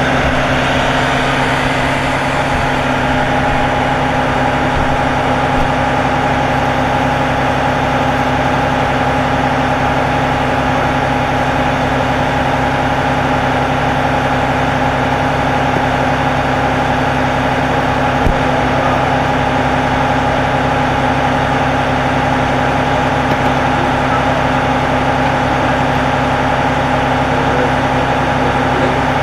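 Fire department ladder truck's engine running steadily at idle, a constant hum with steady tones that do not change.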